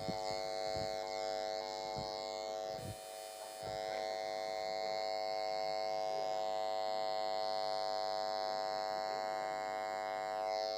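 Steady electrical buzz from a faulty camera microphone, holding one pitch with many overtones, with a few faint clicks in the first four seconds.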